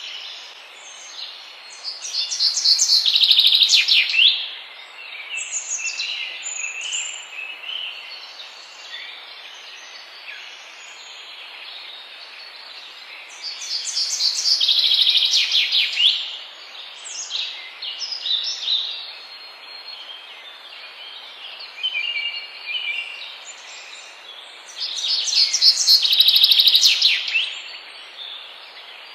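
Forest songbirds singing: one bird repeats a loud, rapid song phrase of quick notes three times, about every eleven seconds, while other birds call more softly in between over a steady background hiss.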